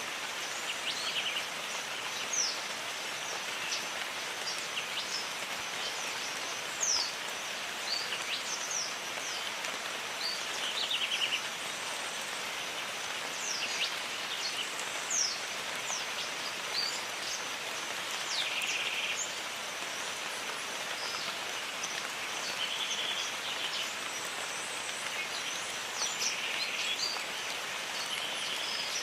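Steady jungle rain hissing, with birds calling over it: many short, high, falling whistles and occasional brief buzzy trills, plus a faint steady high tone.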